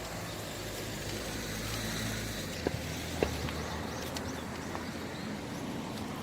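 A passing vehicle's engine hum, strongest in the first half and fading after about three and a half seconds, with two sharp clicks near the middle.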